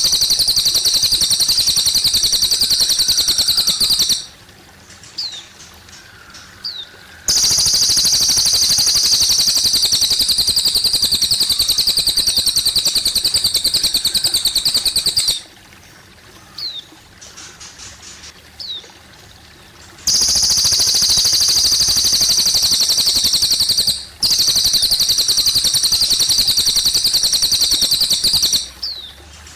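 Cililin bird singing: four long, very rapid high trills of several seconds each, with a few short thin chirps in the gaps, over a steady trickle of water.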